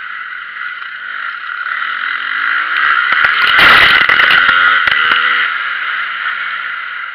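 Motocross motorcycle engines running and revving on the track. The sound swells to its loudest about four seconds in and then fades, as a bike comes close and moves away.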